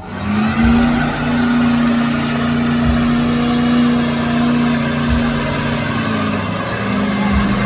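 Big-block mud truck engine running hard at high revs, holding a steady pitch, then dipping briefly near the end and climbing again.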